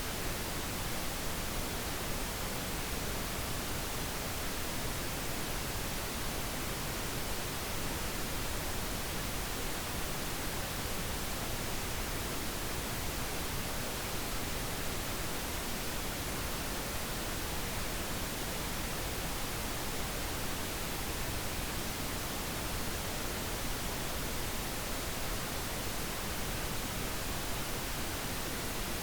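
Steady pink noise: an even, unchanging hiss spread over all pitches, played as a sleep aid.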